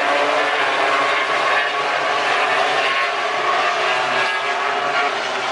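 MotoGP racing motorcycle engines running at high revs, several engines sounding at once in a dense, steady mix of pitches.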